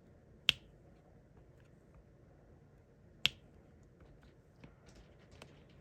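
Two sharp clicks, about half a second in and just past three seconds, then a few faint light ticks near the end: a diamond painting pen tapping drills down onto the sticky canvas.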